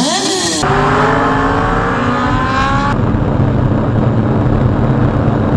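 Motorcycle engines in quickly cut clips. First a brief rev that dips and rises, then an engine accelerating with its pitch climbing steadily for about two seconds. From about three seconds in, a steady engine note at speed under a rush of road and wind noise.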